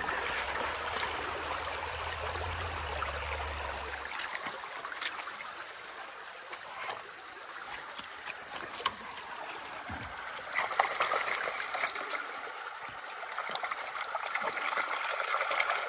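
Steady rush of flowing river water, with scattered light clicks and knocks and one sharper knock about eleven seconds in.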